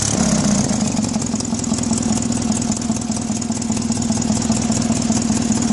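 1977 Sears 186 garden tractor's 18 horsepower Onan engine running steadily at idle.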